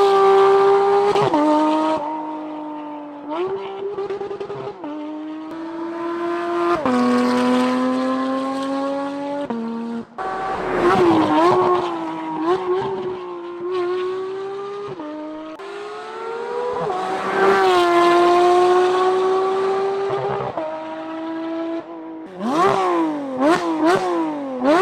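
Porsche 992 GT3's naturally aspirated flat-six with an aftermarket exhaust, revving high and pulling hard through several gear changes: each time the pitch drops suddenly, then climbs again. Near the end come a series of quick, sharp rev blips, up and down.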